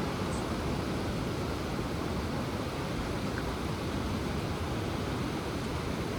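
Ocean surf giving a steady, even rush of noise, with no single breaking wave standing out.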